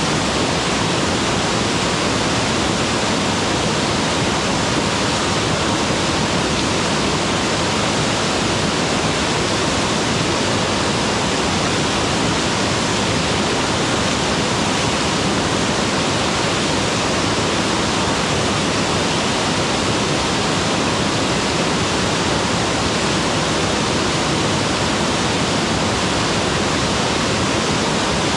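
Mountain waterfall: water pouring and splashing in a steady, loud rush with no let-up.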